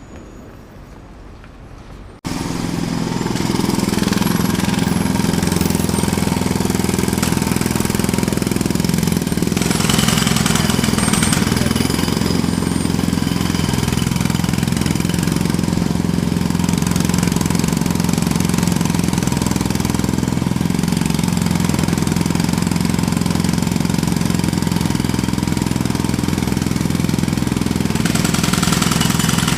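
Jackhammer starting abruptly about two seconds in, then hammering steadily and loudly.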